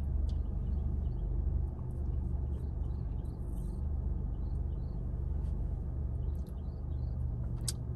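Steady low rumble of a car idling, heard inside the cabin, with faint high chirps scattered through it and one short sharp click near the end.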